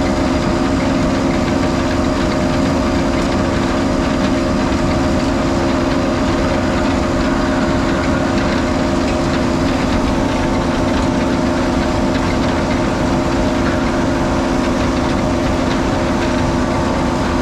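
Heavy diesel machinery engine running steadily at a constant speed.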